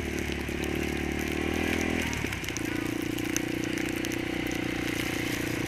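Single-cylinder four-stroke ATV engine running steadily, its note changing about two seconds in.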